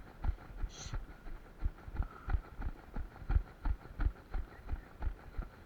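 Running footfalls thudding evenly, about three strides a second.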